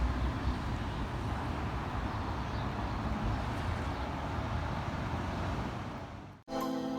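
Strong wind blowing and buffeting the microphone, a steady rushing noise with deep rumbles. It fades out about six seconds in, and gentle plucked-guitar music starts just before the end.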